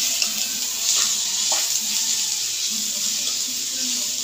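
Onions, green chilies and ginger-garlic paste sizzling in hot oil in a pan, with the scrape of a metal spoon stirring them a few times.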